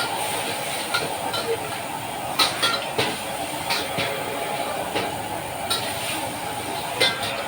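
Metal spatula striking a wok in sharp, irregular clinks, about once a second or two, while fried rice cooks over a steady rushing hiss.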